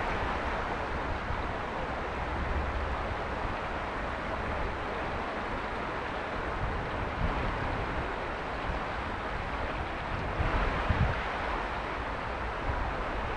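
Mountain river flowing over stones, a steady rushing of water with a low rumble, and a few stronger low rumbles about ten seconds in.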